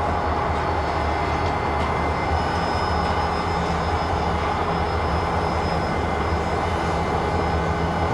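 Milwaukee Road 261, a 4-8-4 Northern steam locomotive, standing under steam and making a steady mechanical roar with a low hum underneath and a faint high whine.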